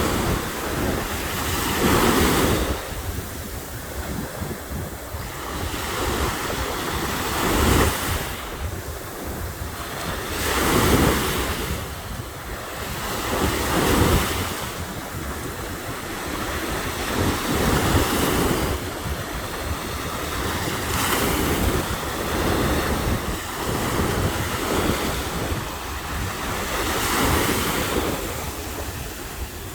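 Ocean surf breaking and washing up a beach in repeated surges a second or two apart, with wind buffeting the microphone.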